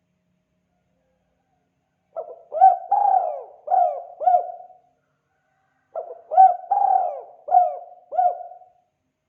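Spotted dove cooing: two matching phrases of about five coos each, the first beginning about two seconds in and the second about six seconds in.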